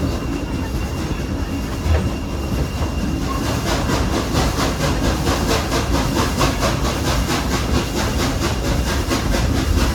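A steam-hauled passenger train running on the rails, heard from aboard one of its coaches behind a Baldwin steam locomotive: a steady rumble and rattle. A few seconds in, a quick, regular beat of about four strokes a second joins it.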